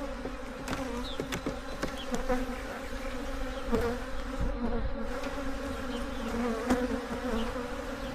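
Honeybees buzzing steadily around an opened hive, with a few light knocks as frames are handled.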